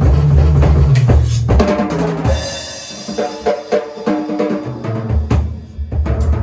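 Drum kit being played, with bass drum and snare hits over music with a held bass line. The playing thins out and gets quieter about two seconds in, then fills back in near the end.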